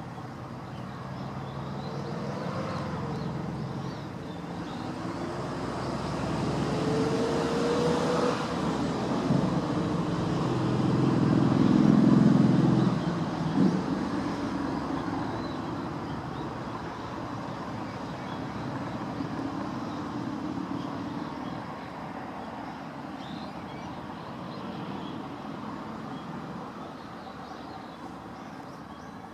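A motor vehicle passing by, its sound building to a peak about twelve seconds in and then fading away.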